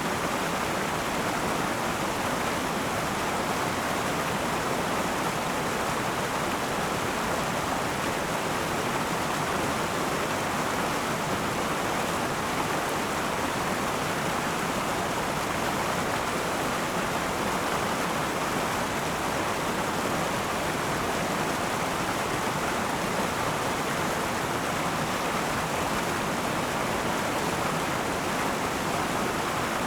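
River water flowing and rushing over rocks: a steady, even rush with no change.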